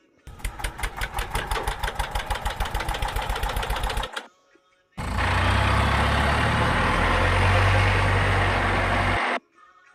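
Two separate bursts of engine running: first a fast, even chugging pulse of about six beats a second, then after a short silent gap a steady low engine hum, which cuts off just before the end.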